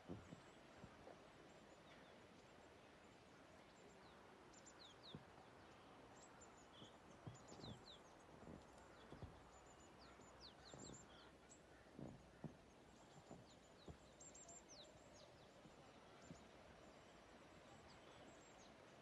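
Near silence: faint outdoor ambience with scattered short, high chirps and a few soft low thumps.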